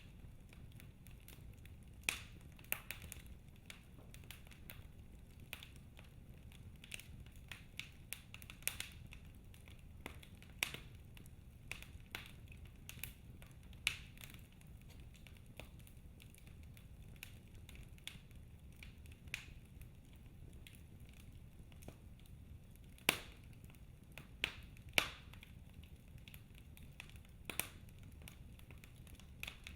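Log fire in a fireplace crackling: irregular sharp snaps and pops over a low steady rumble of the flames, with a few louder pops in the second half.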